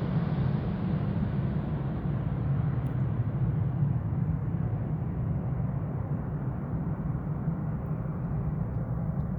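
Boeing 777 jet engines heard as a steady low rumble that slowly fades into the distance after the landing, its hiss dying away.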